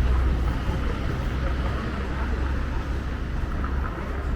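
Low rumble of passing road traffic fading out near the end, over steady outdoor background noise.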